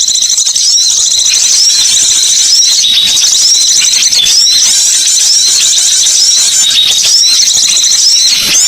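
Loud, dense, high-pitched chirping and twittering of small songbirds, played as a bird-lure call. Short hooked chirps repeat over and over above a steady chatter.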